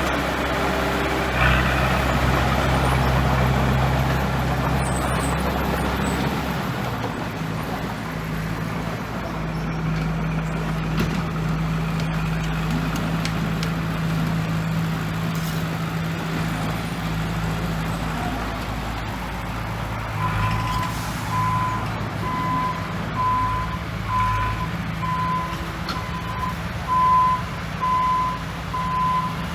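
A heavy construction machine's diesel engine running steadily, its note shifting about a quarter of the way in. Later a reversing alarm starts beeping at about one beep a second as a machine backs up.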